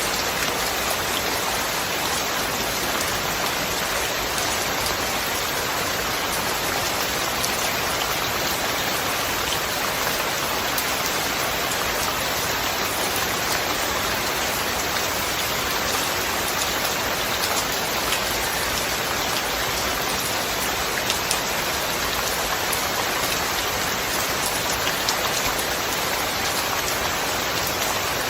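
Steady rain falling: a dense, even hiss of countless drops, with scattered sharper drop taps.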